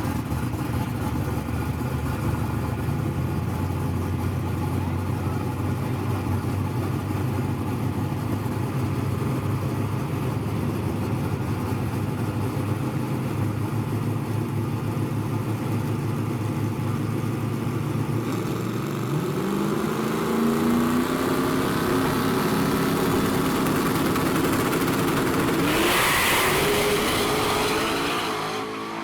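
Drag race car engines running with a steady low rumble, then from about 19 seconds in revving with a climbing pitch as a car launches and accelerates hard. Near the end comes a loud rush of noise, then the sound cuts off.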